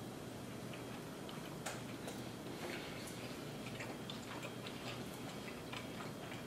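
Sushi being chewed: faint, irregular small clicks and smacks of mouths eating.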